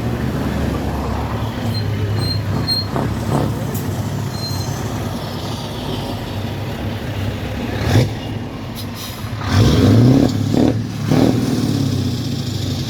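Engines of passing vehicles in a tractor and lorry run, a steady low hum. A sharp knock comes about eight seconds in, and the engine noise swells louder with a rising pitch around ten seconds in.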